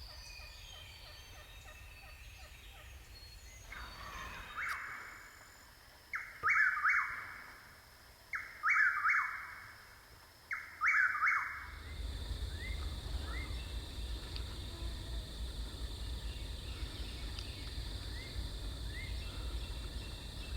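Wild turkey gobbler gobbling four times, about two seconds apart, each gobble a loud rattling burst. After the gobbles there is a steady low rumble with faint short bird chirps.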